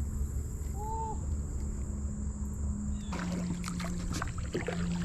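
Irregular knocks and water splashes around a kayak begin about three seconds in, over a steady low rumble and a steady high insect drone.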